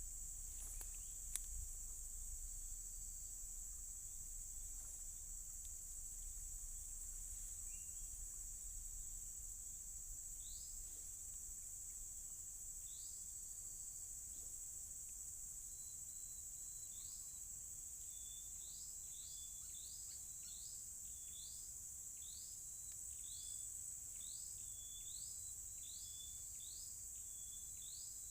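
Steady high-pitched insect drone in swampland, with short rising chirps repeating from about ten seconds in and coming faster, roughly two a second, near the end.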